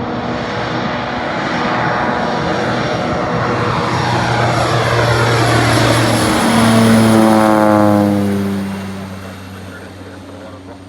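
Propeller floatplane passing close by: the engine and propeller sound grows louder, then drops in pitch about seven seconds in as the plane goes past, and fades away.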